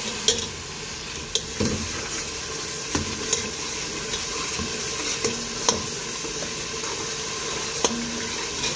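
Spiced tomato-and-onion masala sizzling as it fries in oil in a pressure cooker pot, while a metal spoon stirs it and clinks sharply against the pot now and then. This is the bhuna stage: the masala is being fried until done.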